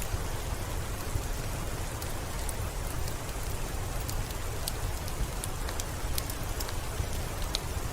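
Steady rain hiss with a crackling wood fire: scattered sharp pops over the even rain.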